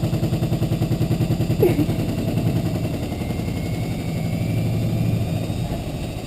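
Washing machine drum turning with bricks and other hard objects inside, giving fast, regular knocking several times a second for about three seconds, then settling into a steadier low rumble.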